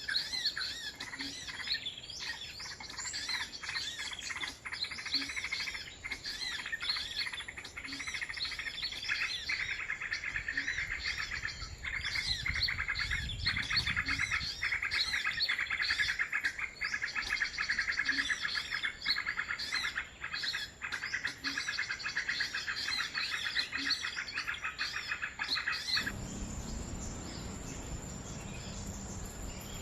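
Many small birds twittering and chirping densely and rapidly. The chirping cuts off abruptly near the end, leaving a steady insect buzz.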